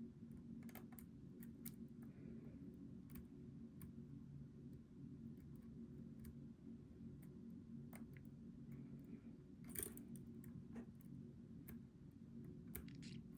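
Faint scattered metallic clicks and ticks of a hook pick working the pins of a Goal V18 lock under tension, with a sharper click a little under ten seconds in, over a low steady hum.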